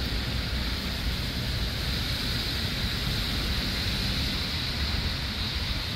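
Steady rushing of water from the fountains and sprayers of an outdoor water play area, with wind buffeting the microphone.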